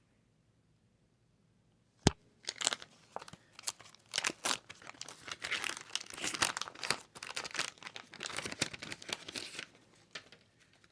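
Wax-paper wrapper of a 1990 Fleer basketball card pack being torn open and crinkled, starting about two seconds in with a sharp snap, then irregular crackling and tearing.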